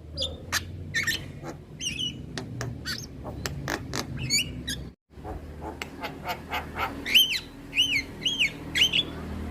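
Male Javan myna singing: a fast jumble of sharp clicks, whistles and harsh chatter, broken off briefly about halfway, then a run of four arched whistled notes near the end. A low steady rumble lies underneath.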